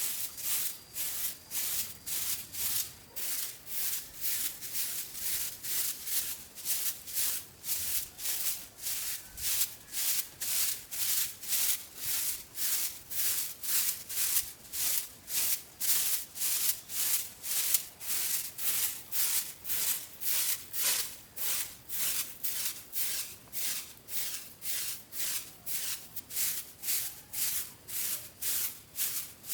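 Rhythmic rasping strokes, a bit under two a second and very regular, like a hand tool being worked back and forth against a rough surface.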